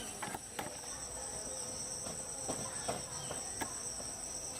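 Insects chirring in a steady high-pitched drone, with a few faint scattered clicks and knocks.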